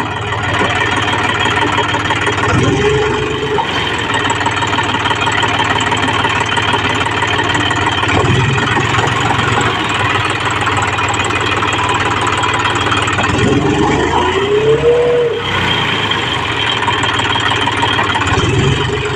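Tractor engine running loudly and steadily, its pitch rising briefly three times as it is revved, the longest rise about three quarters of the way through.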